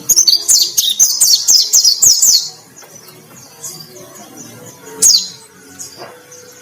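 White-eye (pleci dada putih) singing a loud, rapid run of high chirps for about two and a half seconds, then a single sharp note about five seconds in, over faint background music.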